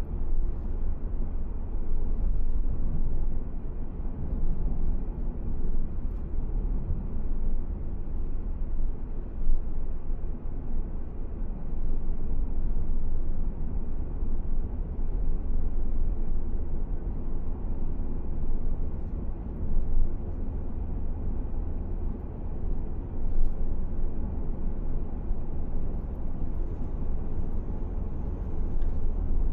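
A car driving steadily, with a continuous low rumble of road and engine noise and faint light ticks now and then.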